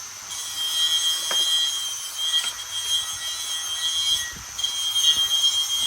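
A workshop power tool running with a steady high-pitched whine over a hiss, cutting out briefly about four seconds in, then starting again.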